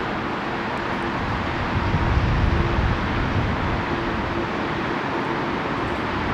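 Steady jet noise from the CFM56-7B engines of a Tunisair Boeing 737-600 landing, swelling in the low end about two seconds in.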